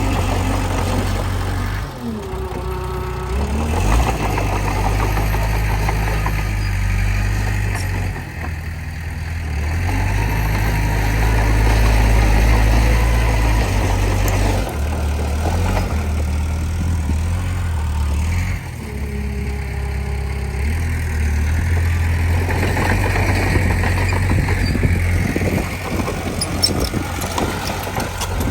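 Komatsu D20P bulldozer's diesel engine running with a heavy low rumble while working soil. The engine note drops and picks up again several times as the load changes.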